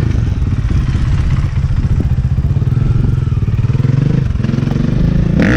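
Motorcycle engine running steadily at low, even revs, with a rapid exhaust pulse.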